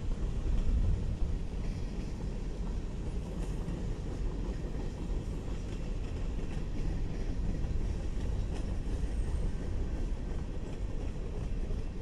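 BNSF oil train rolling past: a steady low rumble with faint clicks from the wheels on the rail joints.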